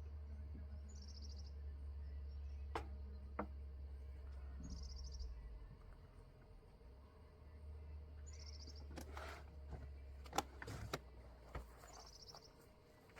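Outdoor ambience with a steady low rumble. A short high chirp repeats every couple of seconds, and a few sharp knocks and clicks fall mostly in the second half.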